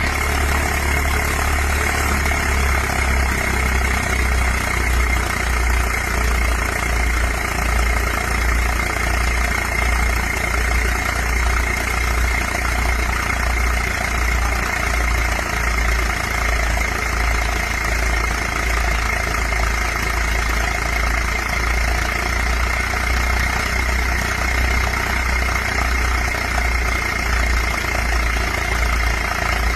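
Tractor's diesel engine running steadily at idle, with a regular low throb about twice a second and a steady high whine over it.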